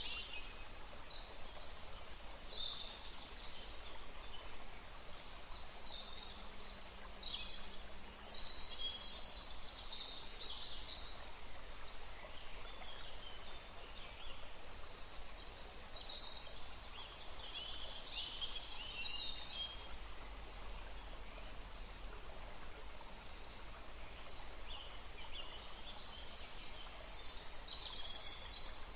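Woodland ambience: several birds calling and singing in short chirps and trills, scattered throughout, over a steady low background hiss.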